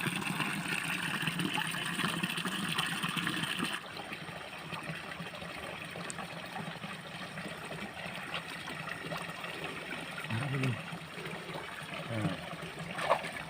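Water trickling and running in a flooded rice paddy. It is steady and louder for about the first four seconds, then suddenly much quieter.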